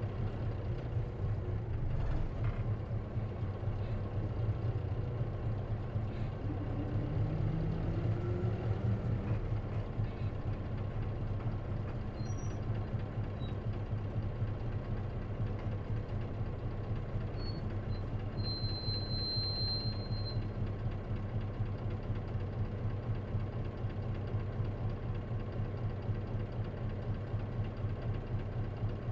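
Interior sound of an Isuzu KC-LV380N city bus with a manual gearbox running along, its engine giving a steady low hum. A rising whine from about six to nine seconds in marks the bus pulling away or accelerating, and a brief high squeal comes about two-thirds of the way through. The uploader says this bus makes an abnormal noise, which he suspects can occur on manual-transmission buses.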